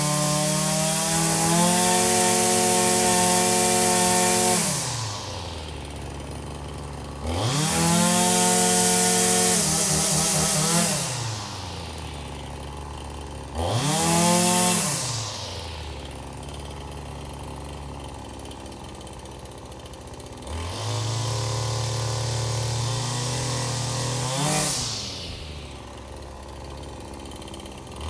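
Small two-stroke engine blipped up to high revs and let fall back to idle about five times. The longer runs at speed come at the start, about seven seconds in and about twenty seconds in, with short blips between them.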